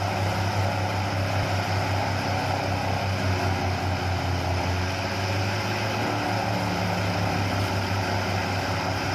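Komatsu BR120T mobile crusher running steadily under load as it grinds wood, a deep, steady rumble with an even low hum and no distinct knocks.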